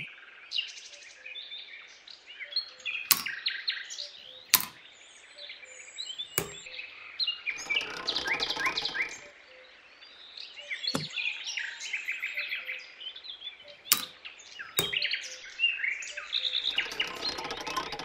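Small songbirds chirping in a busy chorus of many short, quick calls. About half a dozen sharp clicks are scattered through it.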